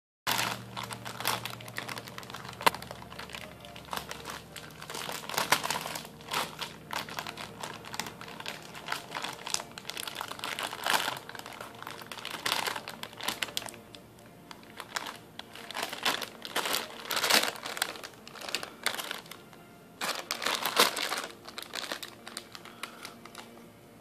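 Plastic diaper-wipes package crinkling as it is handled, an irregular run of crackles with louder bursts every few seconds.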